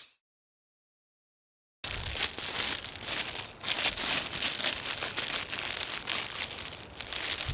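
Silence for about two seconds, then a dense, continuous crinkling crackle.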